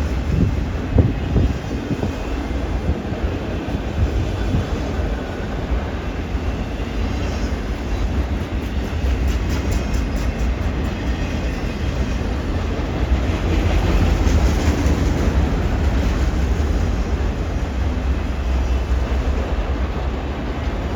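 CN freight train's cars rolling past with a steady low rumble, the wheels clicking and clacking over the track and switch now and then; a little louder from about halfway through.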